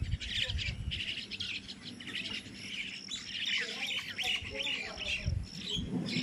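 A flock of small birds chirping and twittering together, many short calls overlapping without a break.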